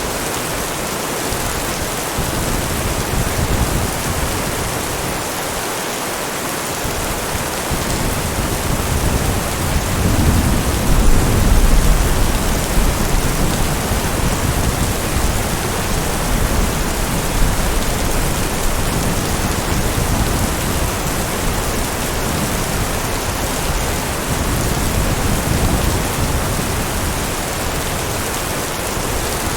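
Steady heavy rain falling, with a low rumble of thunder that swells about ten seconds in and fades over a few seconds.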